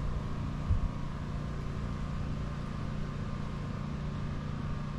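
Steady low hum of a car idling, heard from inside the cabin, with one brief low thump about a second in.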